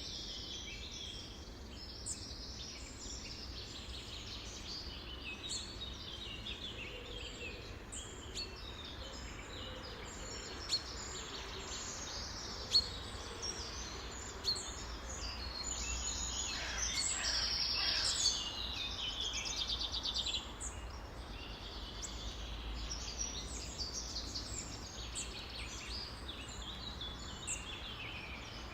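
Many birds singing and calling at once, a dense chorus of overlapping high chirps and trills. A louder trilling stretch comes a little past halfway, and a few sharp notes stand out before it.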